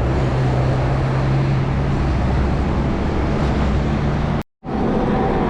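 Wind rushing over the microphone of a moving bicycle, with road traffic and a steady low hum. The sound cuts out completely for a moment about four and a half seconds in, then returns.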